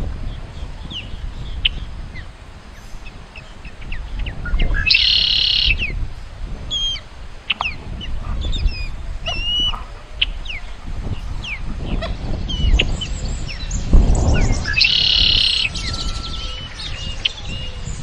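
Wild birds chirping and calling, with many quick chirps and short whistled notes. Two louder, drawn-out calls of about a second each stand out, one about five seconds in and the other about fifteen seconds in, over a low rumbling noise.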